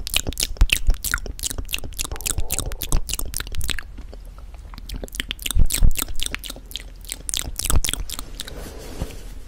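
Crunchy chewing close to the microphone: rapid crisp crackles coming in runs, with a short lull about four seconds in.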